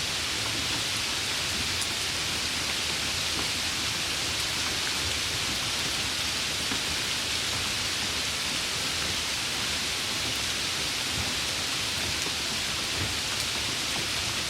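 Steady rain falling: an even hiss that holds the same level throughout, with a few faint drop ticks.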